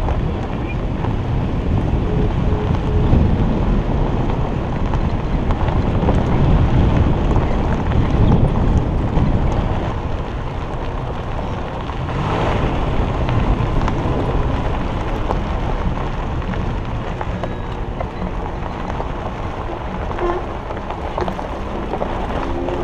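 Nissan Xterra Pro-4X driving on a gravel dirt road: its 4.0-litre V6 running under a steady rumble of tyres on gravel, with wind buffeting the microphone.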